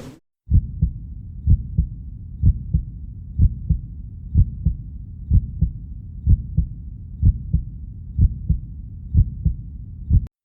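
Heartbeat sound effect: deep, low double thumps, lub-dub, about once a second over a low rumble, starting about half a second in.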